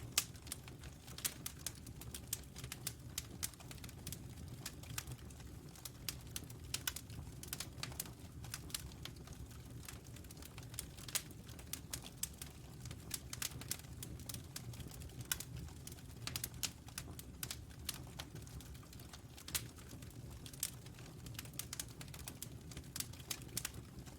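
Wood fire crackling: irregular snaps and pops, some sharp and loud, over a low steady rumble.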